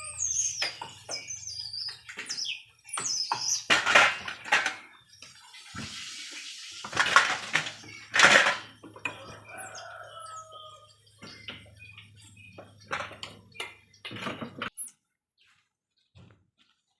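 Baby birds chirping in short, quick high calls, mixed with several loud noisy bursts of handling and a steady low hum. Everything cuts off suddenly near the end.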